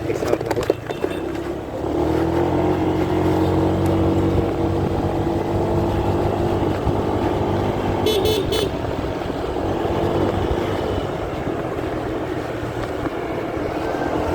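Road traffic heard from a motorcycle: a steady vehicle engine hum holds from about two seconds in until near the end, with a short high-pitched beeping about eight seconds in.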